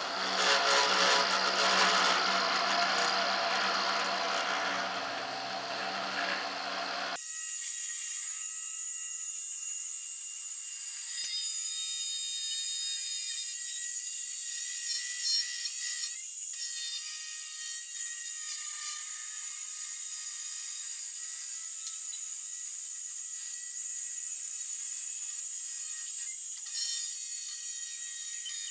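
Small Arduino-controlled CNC router spindle with an end mill cutting plexiglass. About seven seconds in the sound changes suddenly: the low part drops out, leaving only a thin, high-pitched cutting sound with a few clicks.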